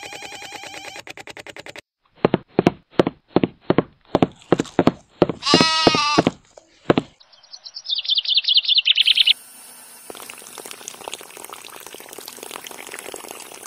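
A sheep bleating among a run of short repeated calls, then a quick burst of high bird chirps, then water pouring steadily from a small pipe.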